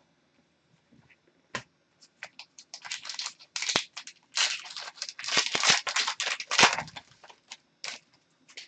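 Hockey trading cards and their pack wrappers being handled: a quick, irregular run of rustles, flicks and crinkles, busiest through the middle.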